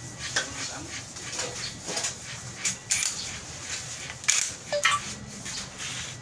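Scattered sharp metallic clinks and knocks, about half a dozen, from hand tools and metal parts being handled during a steering rack repair. The loudest comes a little over four seconds in.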